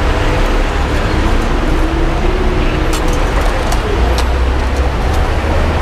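Steady, loud roadside street noise: traffic rumbling low under a dense hiss, with a few sharp clicks about three to four seconds in.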